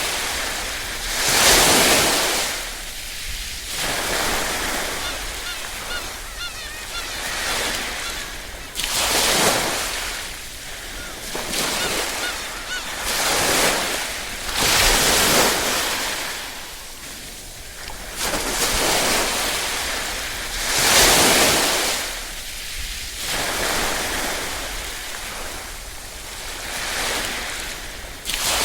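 Small ripple waves washing onto a shore, one wash swelling and falling back every two seconds or so.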